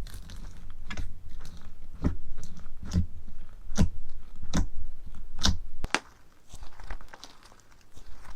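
Crunchy slime being pressed and squeezed: a series of sharp crunches, roughly one a second, giving way to quieter crackling about six seconds in.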